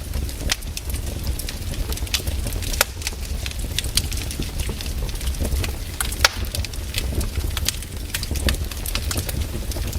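Wood fire in a fireplace crackling, with irregular sharp pops over a steady low rumble of the flames; the two loudest pops come about three and six seconds in.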